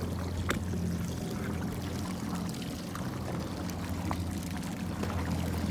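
Jet ski engine running steadily at low revs, with water sloshing and splashing against the hull.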